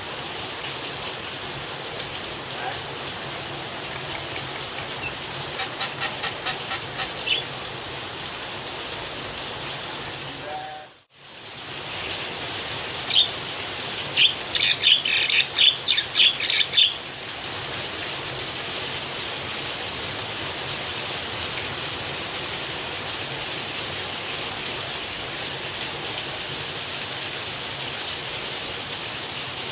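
Steady hiss of falling rain with a Javan myna calling in rapid runs of sharp, harsh notes, a short run about six seconds in and a louder one from about thirteen to seventeen seconds. The sound cuts out briefly around eleven seconds.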